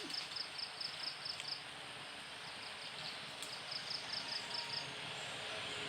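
An insect chirping in quick, evenly spaced high pulses, about seven a second, in two bouts with a short break between them, over faint outdoor background hiss.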